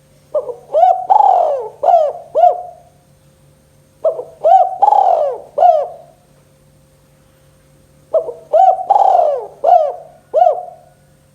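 Spotted dove (tekukur) cooing the "kuk 2" call: three phrases of about five hooting notes each, about four seconds apart, loud and close.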